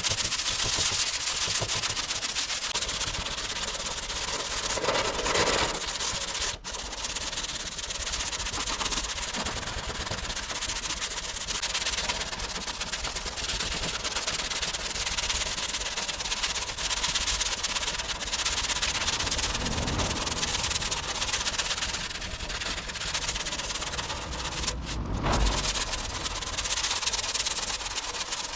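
Steady sanding of cured body filler on a car's front wing, sandpaper rasping over the filler, with a couple of brief breaks.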